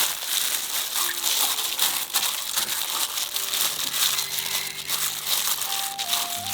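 Food sizzling and crackling in hot oil in a pan, a dense run of tiny pops, with soft background music coming in about halfway through.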